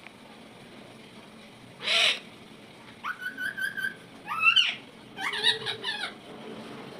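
Indian ringneck parrot calling: a short harsh burst about two seconds in, then a run of pitched calls, some held steady and some sliding up and down.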